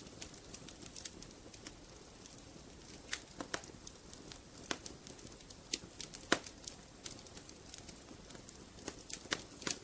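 Wood fire crackling in a fireplace: irregular sharp pops and snaps over a soft steady hiss, the loudest pops a little under five seconds in and past six seconds in.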